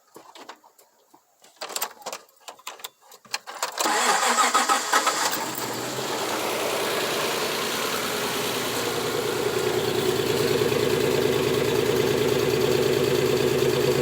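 A few clicks and knocks, then the 1990 Toyota pickup's engine starts about four seconds in and settles into a steady idle with a misfire, which the mechanic traces to spark plug wires crossed between cylinders 2 and 3.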